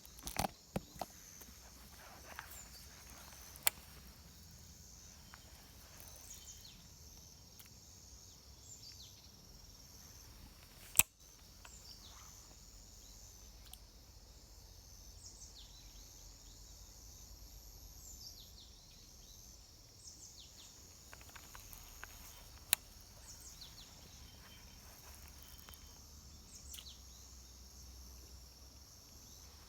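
Steady high-pitched insect drone with scattered short bird chirps, broken a few times by sharp clicks, the loudest about eleven seconds in.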